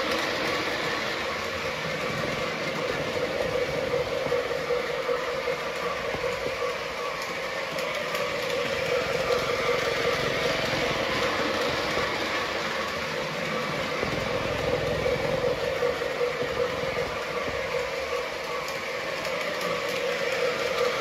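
Menards Union Pacific O-gauge toy train running on steel track, a steady running noise that swells and fades every few seconds as it goes round the loop.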